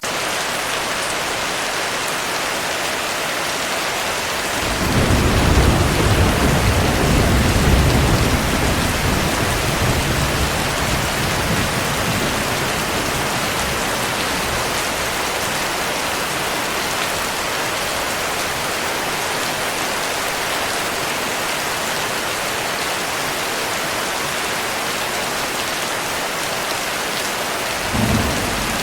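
Steady heavy rain falling throughout. About five seconds in, a long rumble of thunder rolls and fades away over several seconds, and a short low rumble comes near the end.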